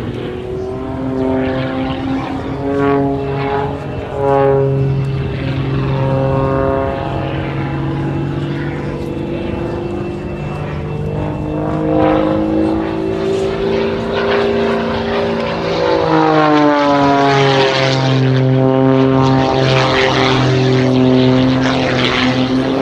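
Pitts S-2S biplane's 260 hp Lycoming engine and propeller running through an aerobatic sequence, its note rising and falling as power and speed change. About two-thirds of the way in the pitch sweeps down, then the engine holds louder to the end.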